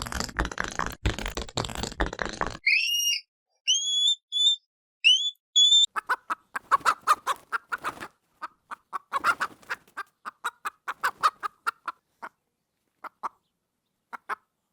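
A run of animal sound effects: a couple of seconds of dense rasping noise, then several short high chirps that rise in pitch, then a long series of rapid sharp clicks or knocks that slows and thins out toward the end.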